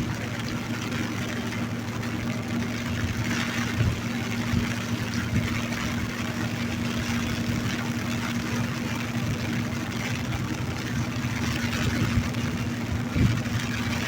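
Steady rain falling, with a constant low hum like an idling engine beneath it and scattered dull thumps.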